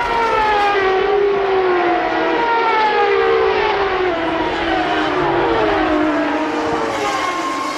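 Several Formula One cars' 3.0-litre V10 engines running at high revs, the field together, their overlapping notes sliding down in pitch one after another.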